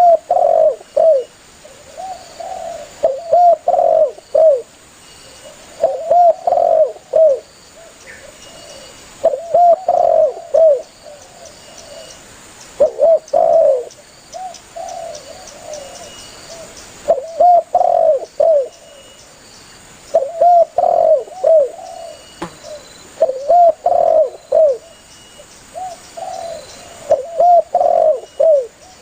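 Spotted dove cooing: a phrase of several low coo notes, repeated about every three seconds.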